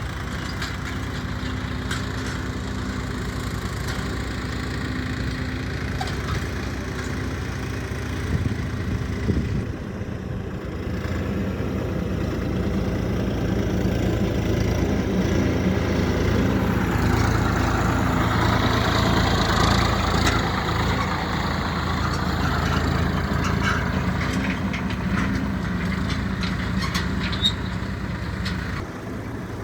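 Swaraj 969 FE tractor's diesel engine running steadily, growing louder about twelve seconds in and easing off near the end.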